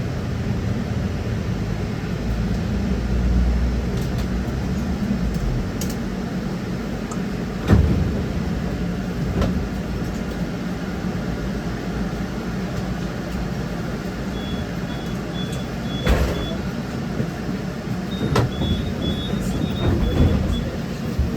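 Ride inside an electric trolleybus: steady low rumble of the vehicle running, with a sharp knock about 8 s in and another about 16 s in. Short series of high beeps come in the second half.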